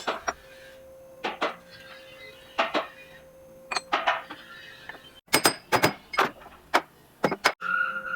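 Hard parts and tools being handled and set down: a series of sharp metallic clinks and clunks, coming quicker and louder in the second half, over a faint steady hum.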